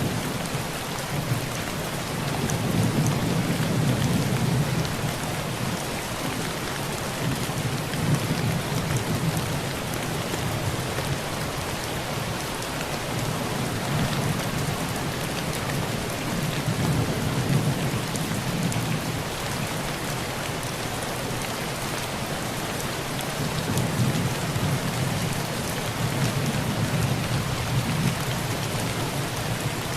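Heavy rain falling steadily, with low thunder rumbling and swelling several times beneath it.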